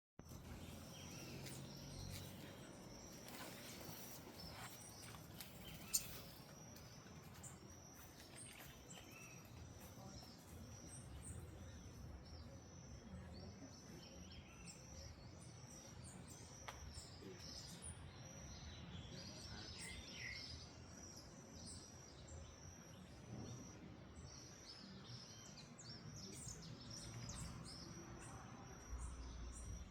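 Wild birds chirping, many short high chirps repeating over a faint background hum, with one sharp click about six seconds in.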